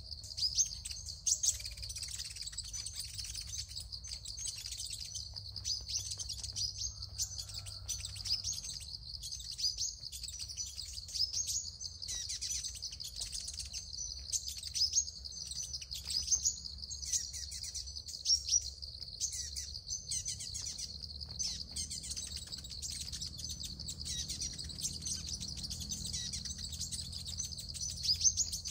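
Sunbirds chirping and twittering: a dense, unbroken stream of quick, high-pitched notes.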